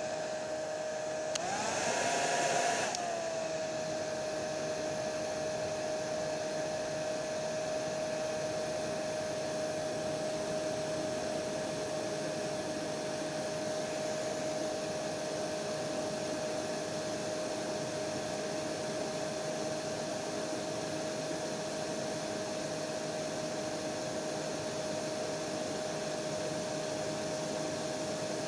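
Electric hair dryer running continuously: a steady rush of air under a constant motor whine. About two seconds in, it briefly swells louder and higher in pitch, then settles back to the same steady tone.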